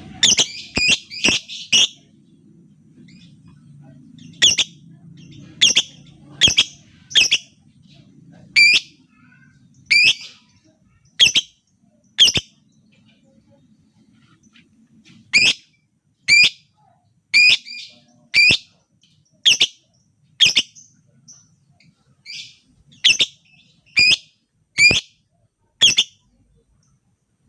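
Lovebird giving short, sharp, shrill calls one at a time, about two dozen in all at roughly one a second, with a pause of a few seconds midway.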